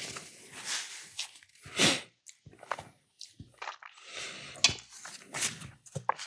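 A person eating close to the microphone: irregular wet chewing and mouth noises, with scattered short clicks and bursts.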